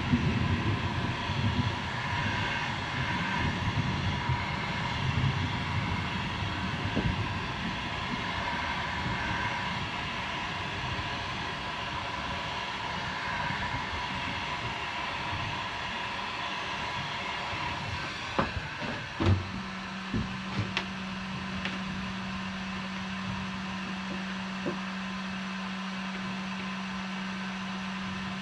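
Electric heat gun blowing steadily, a whooshing fan noise with a steady whine. About two-thirds of the way through come a few knocks and clicks, after which only a steady low hum remains.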